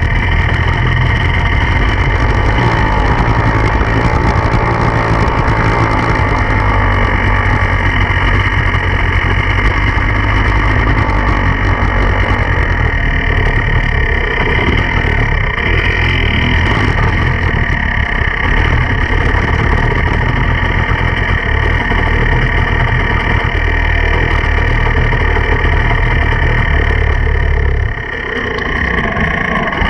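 Enduro dirt bike engine running steadily, heard close up. The sound drops away briefly near the end, then picks up again.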